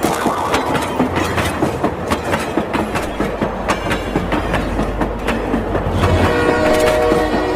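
A train running: a steady rattle of quick clicks, with a low rumble coming in about three seconds in. A pitched tone sounds for about a second and a half near the end.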